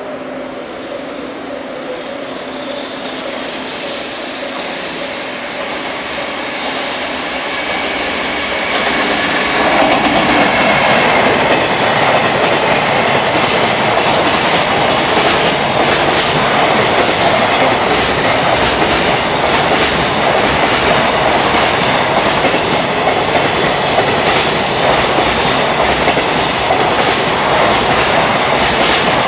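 Container freight train hauled by a JR Freight EF210 electric locomotive passing at speed: the locomotive's motor whine grows louder as it approaches, and from about ten seconds in the container wagons rush past with a loud, steady clatter and a rapid clickety-clack of wheels over rail joints.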